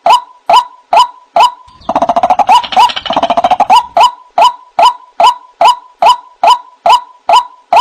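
White-breasted waterhen (ruak-ruak) calling: a steady string of short 'kruak' notes about two a second. About two seconds in, they break into a rapid stuttering chatter lasting about two seconds, then the steady calls resume.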